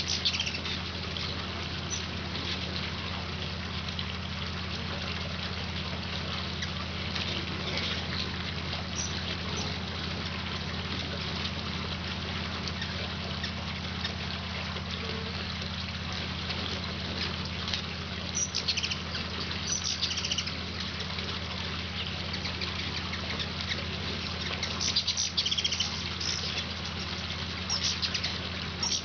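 Hummingbirds, mostly black-chinned, giving short bouts of high chattering chip calls several times as they squabble over feeding positions at a feeder. A steady low hum and hiss run underneath.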